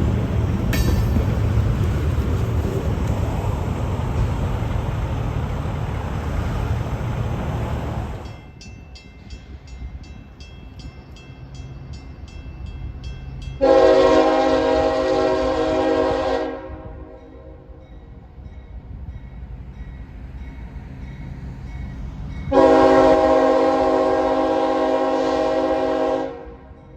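A freight train rumbling past, cut off abruptly about eight seconds in. Then a diesel locomotive's multi-chime air horn sounds two long blasts, several seconds apart.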